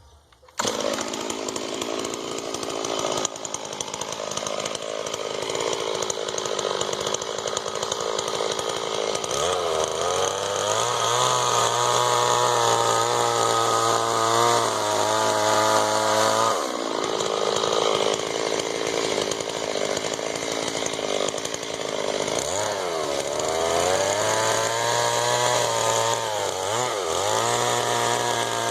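Two-stroke chainsaw cutting in abruptly about half a second in, then running at high revs. Its pitch sags and recovers several times, with brief dips partway through and near the end.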